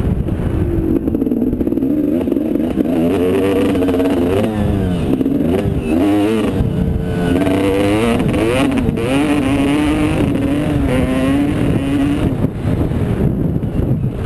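Motocross bike engine revving up and down again and again, its pitch climbing and dropping through throttle changes and gear shifts, over a steady low rumble.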